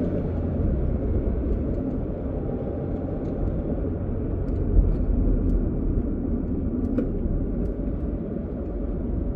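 Car driving along a road: a steady low rumble of engine and tyres, with one short click about seven seconds in.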